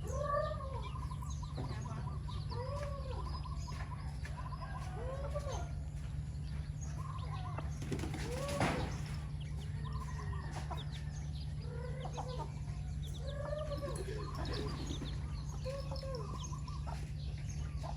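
Chickens clucking, with short arched calls repeating every second or two over a steady low hum. A single sharp knock comes about halfway through.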